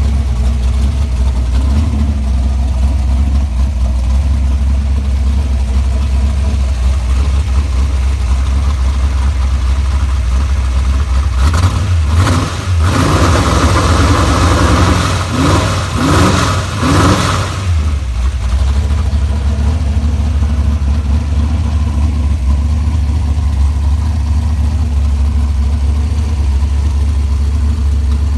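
Chrysler 440 big-block V8 with tunnel-ram intake idling with a steady rumble, revved several times in quick blips about halfway through, then settling back to idle.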